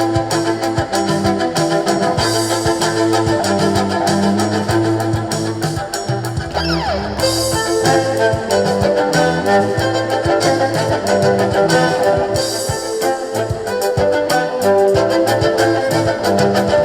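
Live band playing an instrumental passage, with guitar and violin over a stepping bass line.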